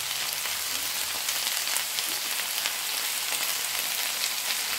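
Chicken breast fillets sizzling in a hot grill pan: a steady frying hiss with fine crackles.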